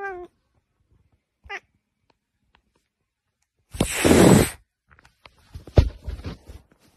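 A domestic cat hisses once, loudly, for about a second at close range. Just before, the tail of a meow fades out at the very start. A few knocks and a sharp thump follow near the end.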